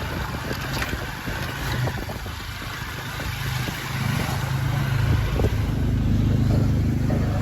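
A motor vehicle's engine running on the road, getting louder about four seconds in.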